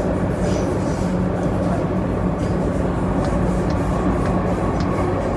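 MTR Kwun Tong Line C-train (CNR Changchun EMU) running steadily between stations, heard from inside the car: an even rumble of wheels and running gear with a steady low hum.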